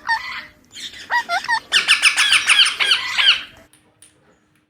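Young ringneck parakeet calling: a rapid string of short, shrill squawks that stops abruptly about three and a half seconds in.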